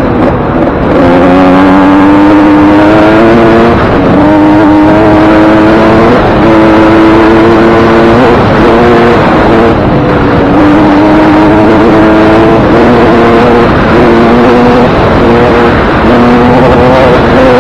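Suzuki RM125 two-stroke dirt bike engine being ridden hard, on a freshly rebuilt top end with a new piston ring and wrist pin. The engine note climbs under throttle and drops back several times.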